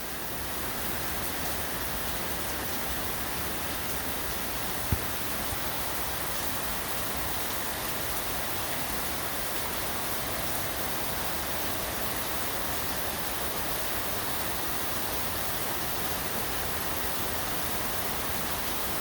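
Heavy rain falling steadily, an even hiss with no letup. A single sharp click sounds about five seconds in.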